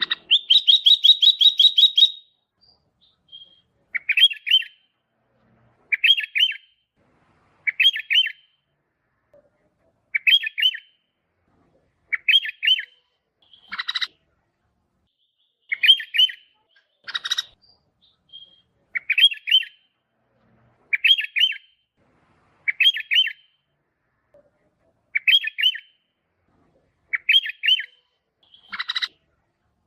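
Sooty-headed bulbul calling: a longer run of quick notes at the start, then short phrases of a few quick notes repeated about every two seconds, with a few harsher single calls among them.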